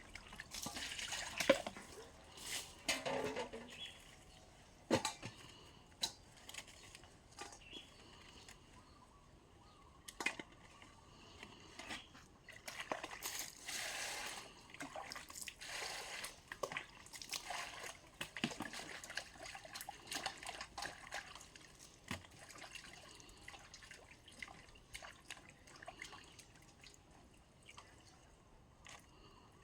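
Water sloshing, trickling and dripping, with scattered clicks and knocks of things being handled in it.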